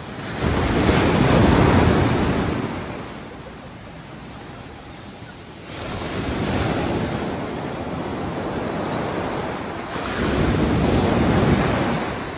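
Ocean waves washing in three times, each surge swelling to a rush and then fading over a few seconds.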